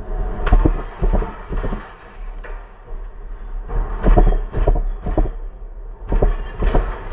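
Electric commuter train passing close by, its wheels clacking over the rails in quick pairs of knocks above a steady low rumble.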